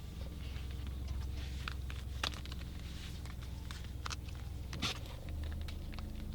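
Car engine idling with a steady low rumble, heard from inside the cabin, that grows louder about five seconds in, with irregular light ticks of raindrops hitting the car.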